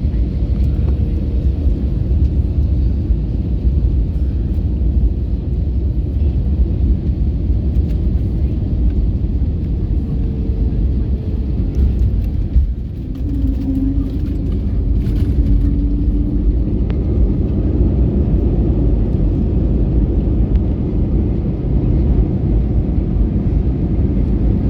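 Steady low rumble of an Airbus A321neo heard from inside the passenger cabin, engines and airflow together. It dips briefly about halfway through, with a click, and a faint steady tone sounds for a few seconds after.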